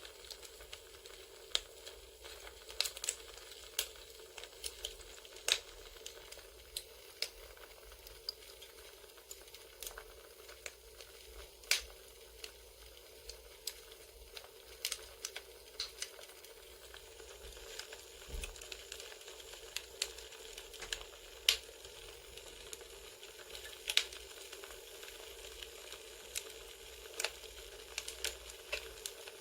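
Campfire crackling: a steady soft hiss with irregular sharp pops and snaps, a few of them louder.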